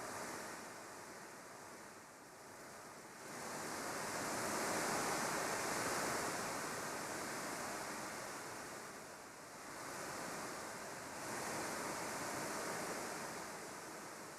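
Waves washing, a rushing noise that swells and fades, loudest a few seconds in and again near the end.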